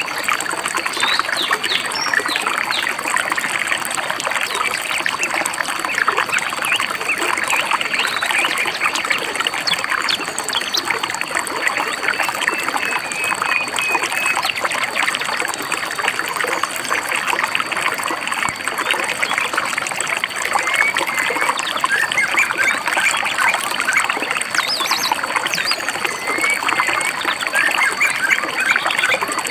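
A small stream babbling and trickling over stones, with birds chirping now and then above the water. A thin steady high tone runs under it.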